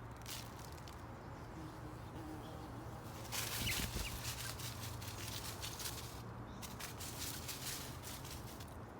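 Birds at a feeder: rustling and quick clicking in bursts, loudest three to four seconds in and again near the end, with a couple of short faint chirps, over a steady low hum.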